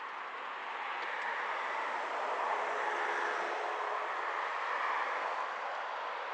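Steady rushing road and wind noise from a moving bicycle on a city street. It swells about a second in, with a faint hum in the middle.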